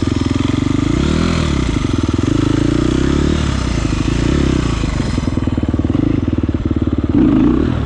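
Petrol off-road engine running close by with a rapid low firing pulse. It revs up and back down briefly about a second in, and swells again near the end.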